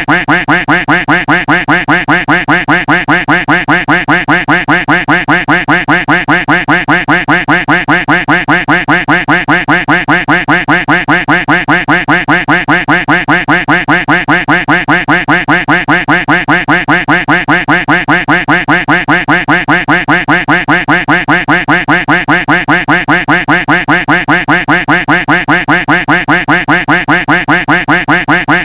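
A duck quack sound effect looped over and over, several quacks a second in an unbroken, perfectly even rhythm.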